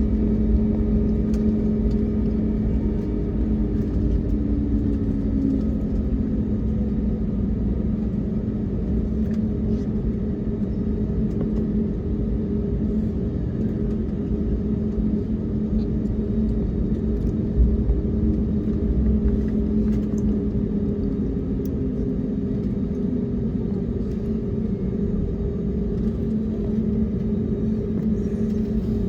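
Steady cabin drone of an Airbus A321neo: a low rumble with a constant engine hum, one tone of which glides slightly a few seconds in.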